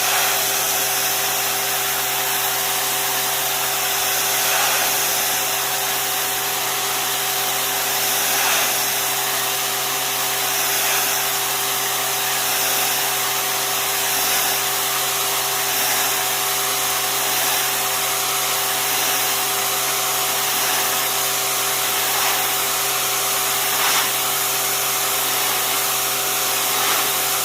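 Wilks USA RX 550i electric pressure washer spraying with the trigger held. A steady motor hum runs under the loud hiss of the high-pressure jet from a 15-degree nozzle. It starts and cuts off abruptly.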